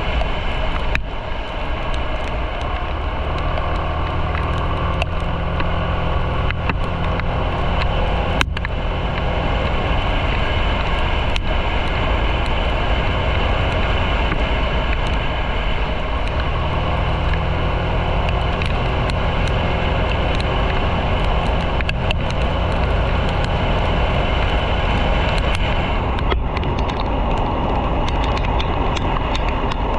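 Motorcycle engine running steadily while riding, under a constant noise haze.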